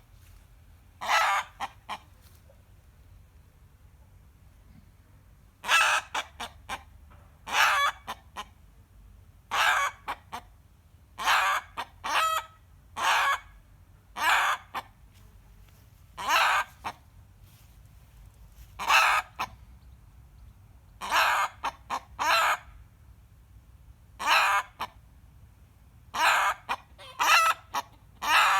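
A rooster screaming: loud, harsh half-second calls, each followed by a few short clipped notes. After one call near the start and a pause of several seconds, the calls repeat about every two seconds. This is his usual response to hearing a hen cackling.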